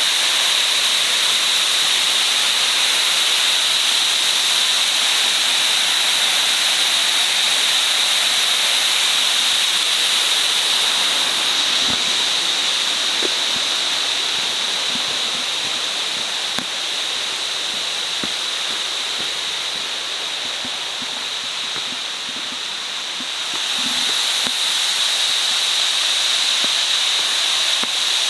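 Nabegataki waterfall's water falling into its pool: a steady rushing hiss that softens for a stretch about halfway and grows again near the end.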